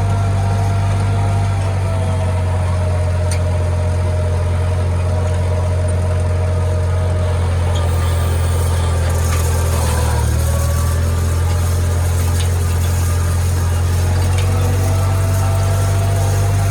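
International Harvester tractor engine running at a steady speed, a deep constant hum with a fainter whine above it that dips briefly in pitch about ten seconds in.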